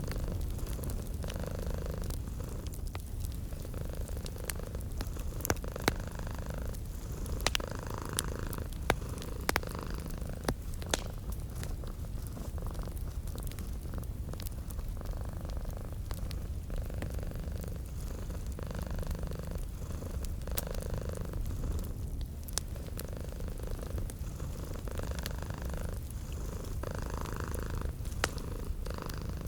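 Domestic cat purring steadily, swelling and fading with each breath about every one and a half to two seconds, over the soft crackle and scattered pops of a wood fire in a fireplace.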